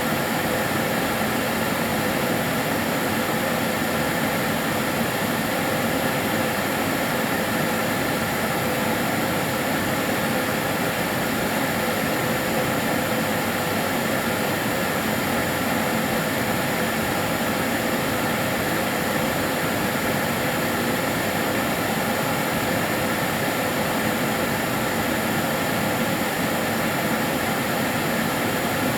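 Karcher DS 6 Premium water-filter vacuum cleaner running steadily. Its motor gives an even rushing hiss with a faint whine and no change in pitch.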